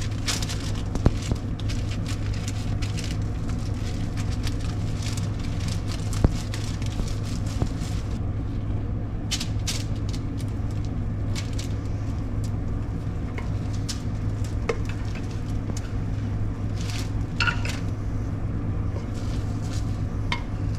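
Cooked rice being spread out on a food dehydrator tray with a utensil: soft scraping with scattered clicks and taps, over a steady low hum.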